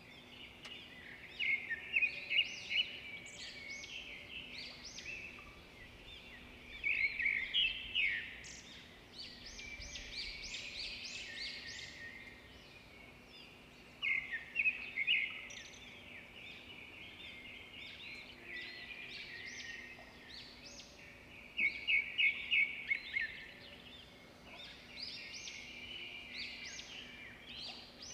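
Birds chirping: groups of rapid, high chirps come every few seconds, the loudest groups about 2, 7, 14 and 22 seconds in, over a faint steady low hum.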